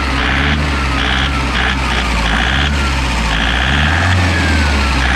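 A Toyota Innova's diesel engine running with a heavy, abnormal knocking clatter, a tractor-like sound that the mechanic likens to faulty injector nozzles or a failing pump. A thin whistle falls in pitch several times.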